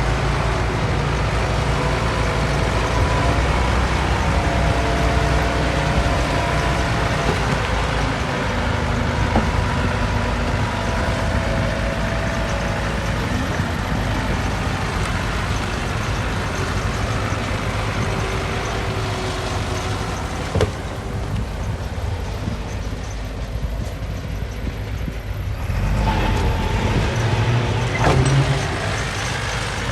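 Diesel engines of heavy earthmoving machinery running steadily with a deep rumble. The sound thins for a few seconds about two-thirds of the way through, then the low rumble swells again.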